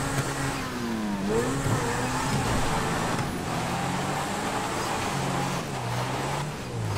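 Video-game supercar engine revving up and down while the car sits stuck, wheels spinning in place.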